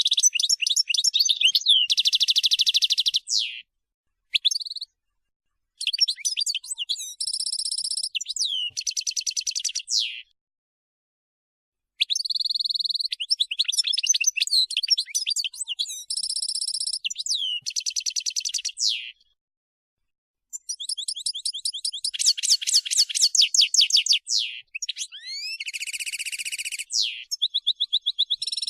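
European goldfinch singing: high-pitched phrases of rapid twittering, trills and buzzy notes. The phrases come in about five bursts separated by short silent gaps.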